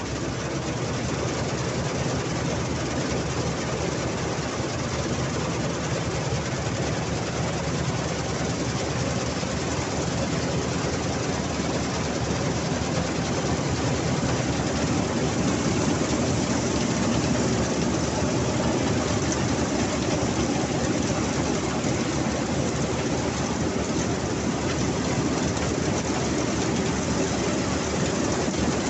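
Mahindra 275 XP Plus tractor's diesel engine running steadily during wheat harvesting, mixed with a dense mechanical noise from the harvesting machinery; it grows slightly louder toward the middle.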